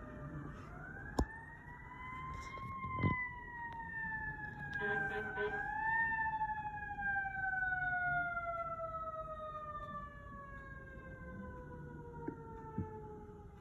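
Fire truck siren wailing in one slow sweep. It rises over the first few seconds, falls gradually, jumps up briefly about six seconds in, then slides steadily down for the rest. A few sharp clicks come through, one near the start and two near the end.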